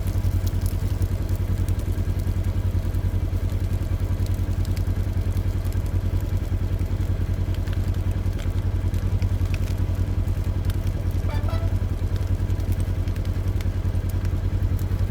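A vehicle engine running steadily at low, even revs, with a pulsing low drone that does not rise or fall.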